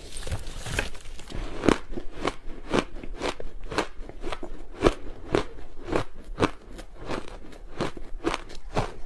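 Chunks of ice being bitten and crunched between the teeth: a steady run of crisp crunches, about two a second.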